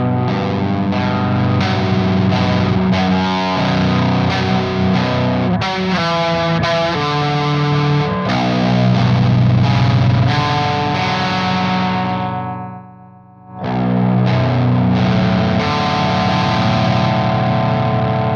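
Electric guitar in B standard with passive pickups, played through a Frost Giant Electronics The Mountain pedal in overdrive mode into a Sunn Beta Lead amp, picking overdriven chord arpeggios. About two-thirds through, a chord rings out and fades nearly away before the arpeggio starts again.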